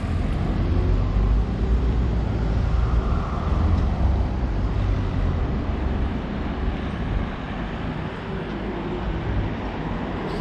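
Road traffic passing on a street: a steady rumble of vehicles, swelling as one goes by about three seconds in.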